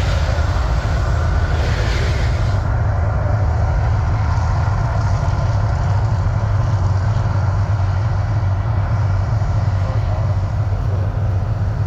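Mirage volcano show effects: a loud, steady low rumble, with a hissing rush over it that stops about two and a half seconds in.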